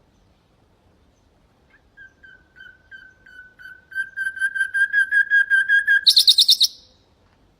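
Common nightingale singing one phrase: a series of repeated whistled notes that speeds up and grows louder, then ends in a short, fast, high rattle.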